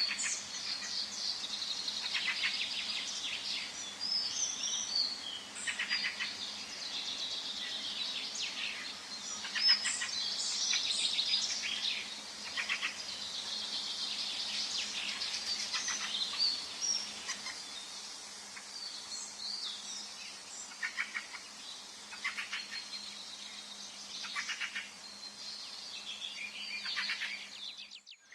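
Forest birdsong: several birds singing and chirping at once, with overlapping calls and short trills, over a faint steady background hiss.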